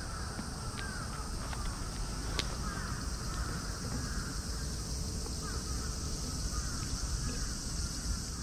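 Birds calling repeatedly, short sliding calls scattered throughout, over a steady high hiss and a low background rumble, with a few sharp ticks.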